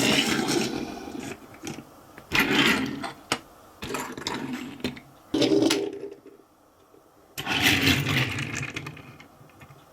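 Toys being handled: a run of short scraping and rattling noises with pauses between, the longest gap about two-thirds of the way through.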